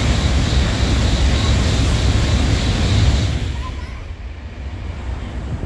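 N700-series Shinkansen train passing through the station at high speed: a loud rushing roar of air and wheels with a deep rumble, which fades away from about three seconds in as the last cars go by.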